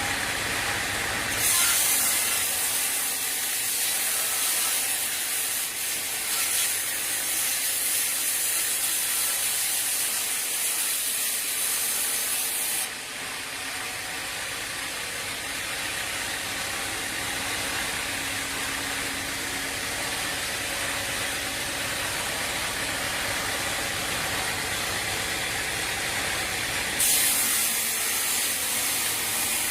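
Sawmill machinery running steadily, with a loud high hiss that comes in about a second and a half in, stops near the middle, and returns near the end.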